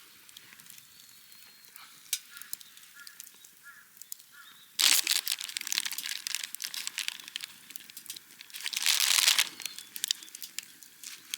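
Crinkling and rustling of material being handled, starting about five seconds in, with a louder stretch of crumpling near the end.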